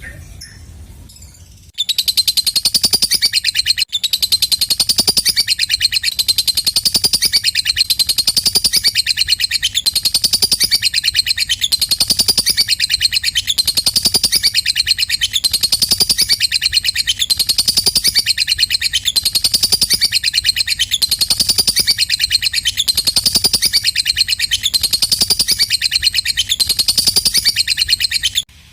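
Lovebird's long 'ngekek' chatter: a continuous run of rapid, high-pitched clicking pulses that swells and falls about once a second. It starts about two seconds in and stops abruptly near the end.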